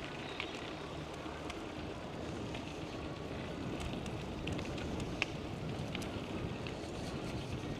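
Steady rush of wind on the microphone and tyre noise from a bicycle being ridden, with scattered light clicks and rattles.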